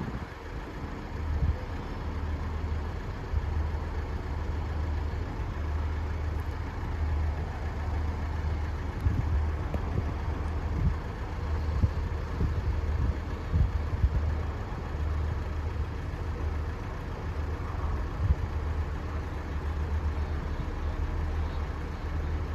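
Northern Ireland Railways Class 3000 diesel multiple unit idling at the station, a steady low engine hum.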